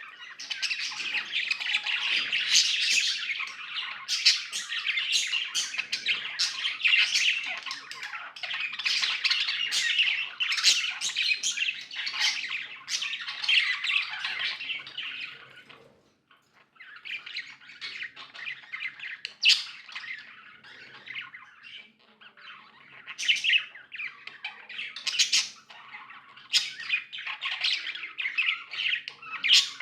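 Budgies chattering and chirping continuously in a dense, fast warble with sharp squawky notes, pausing briefly just past the middle before starting up again with louder, sharper calls.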